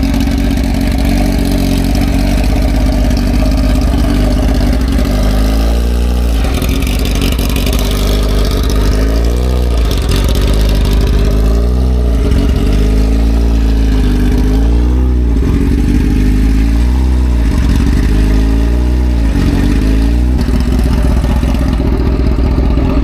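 2011 Kawasaki ZX-10R's inline-four engine running, steady at first, then its pitch rising and falling again and again, about every second and a half, from about six seconds in until just before the end.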